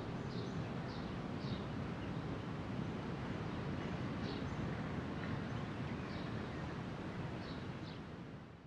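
Outdoor ambience: small birds chirping in short, high, falling notes, several in quick succession near the start and a few more later, over a steady low rumble. It all fades out near the end.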